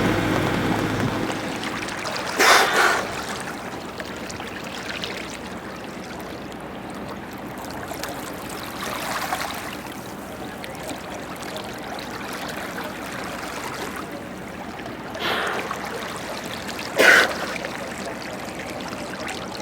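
Water trickling and rushing steadily, with about four brief louder splashes, the loudest near the end.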